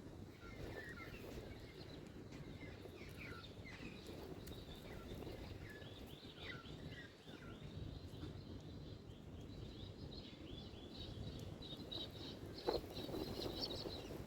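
Birds chirping in the background over a steady low outdoor rumble, with many short high calls that grow denser in the second half. One sharp click near the end.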